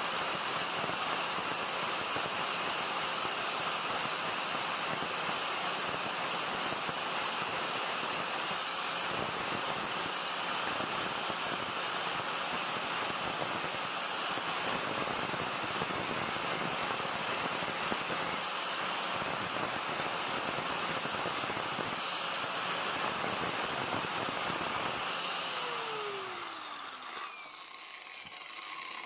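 A motor-driven tool or blower running steadily with a loud rushing noise and a faint high whine, then switched off near the end and winding down with a falling pitch.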